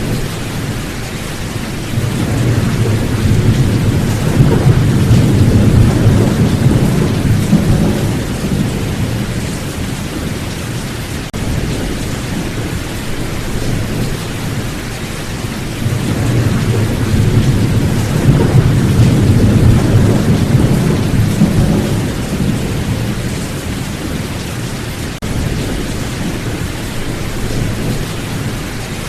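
Steady rain with long, low rolls of thunder: one swells about two seconds in and rumbles for several seconds, a second comes past the middle, and a third begins near the end.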